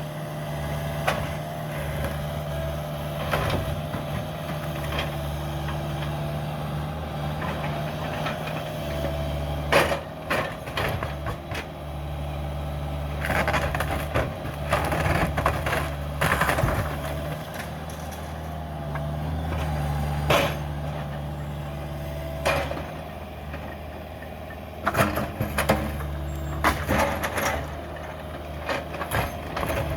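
Cat 305 mini excavator's diesel engine running steadily, with repeated bursts of sharp cracking and crunching as it breaks up the house, busiest in the middle and near the end.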